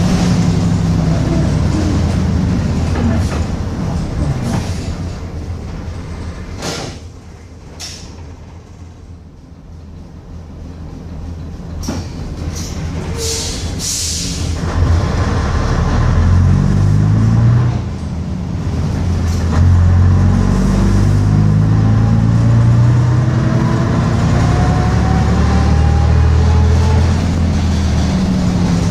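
Bristol RELL6L single-deck bus's diesel engine running. It falls away to a quieter idle about a quarter of the way in, with a few short sharp sounds, then pulls away, its pitch rising steadily as the bus accelerates.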